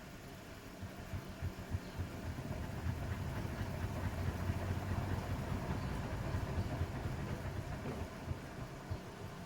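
Bosch WAT286V0 washing machine drum turning with its load, a low rumble with irregular knocks that builds after about a second and eases off near the end.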